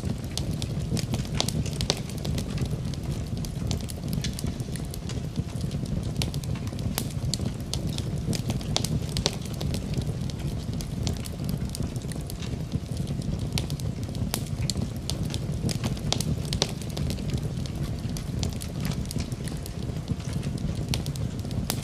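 Wood fire burning in a fireplace, crackling and popping with frequent irregular sharp snaps over a steady low rumble of the flames.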